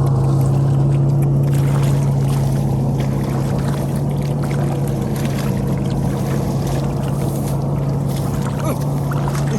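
A small engine running steadily at a constant speed, with a strong low hum that does not change.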